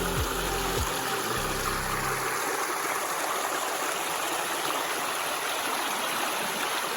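Stream water running with a steady, even rush. A low tail of background music fades out about two seconds in.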